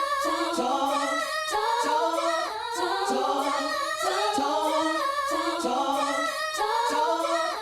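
Unaccompanied singing, several voices in a cappella harmony, held sung notes that move in pitch, with no drums or bass.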